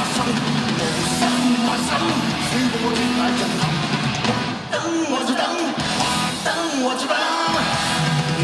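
Live rock music with electric guitar and a lead singer, played by a band in concert.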